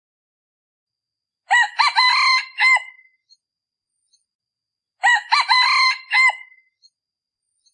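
Male red junglefowl decoy crowing twice, two short crows about three and a half seconds apart. This is the call used to lure wild junglefowl.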